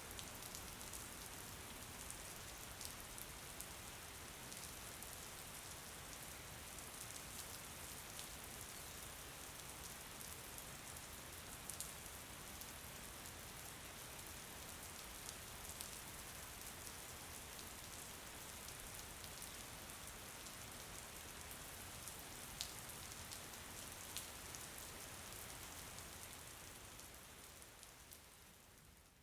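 Steady rain falling, with scattered sharp drop ticks over the hiss; it fades down near the end.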